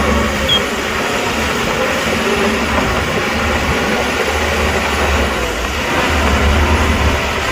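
Heavy diesel machinery running at work, a steady engine rumble that swells and eases with load.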